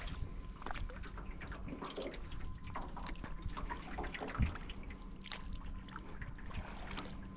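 Water dripping and trickling off a canoe paddle, with many small splashes and one low knock about four and a half seconds in.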